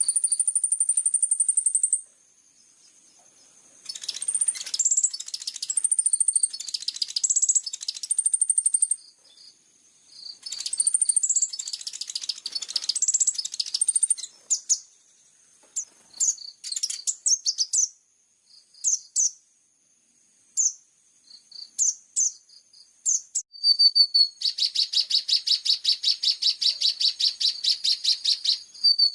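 A small songbird singing high-pitched song. It opens with a held whistle, moves into phrases of quick chirps, then scattered single notes, and near the end a fast, even trill.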